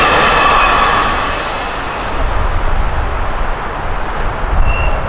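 Long Island Rail Road M3 electric multiple-unit train running past at speed, wheels rumbling on the rails. A high whine fades out in the first second, and the low rumble swells again about two seconds in and near the end.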